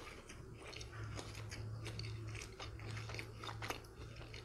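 Close-miked chewing and biting into a double Hokkaido salmon burger, with its breaded fried salmon patties in a soft bun: soft crunches and wet mouth clicks.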